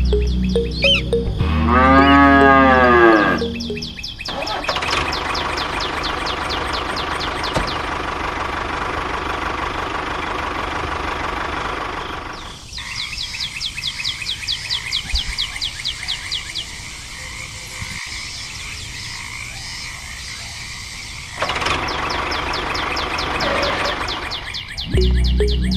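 A cow mooing once, a long call that rises and falls in pitch, over a steady low hum. Then a steady mechanical whirring, and about halfway in a fast, even rattling.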